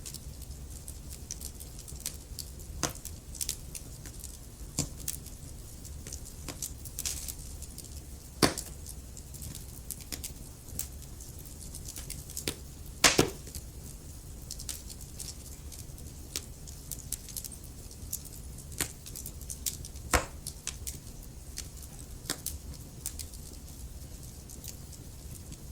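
Logs burning in a fireplace: a steady low rumble of flames with irregular sharp crackles and pops, the loudest a quick double pop about halfway through.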